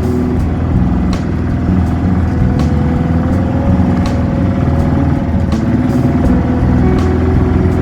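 Boat engine running steadily at cruising speed, with a sharp knock every second or two.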